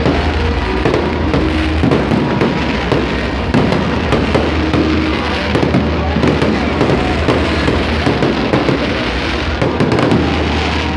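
Fireworks display going off without pause: a dense, continuous run of loud cracks and bangs, with music playing underneath.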